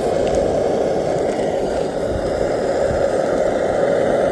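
Camp stove burner running with a steady, even roar.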